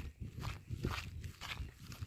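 Footsteps walking over dry ground, irregular crunches with low thuds.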